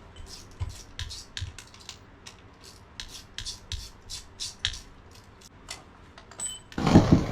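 Metal hand tools clinking, scraping and rattling in irregular light clicks and a few dull knocks as a wrench works on the starter's mounting bolts. Near the end there is a loud rushing burst about a second long.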